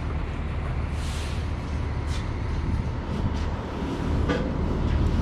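Steady low rumble of a running vehicle engine, with a few light knocks and clicks from boxes being handled during the unloading of a box truck.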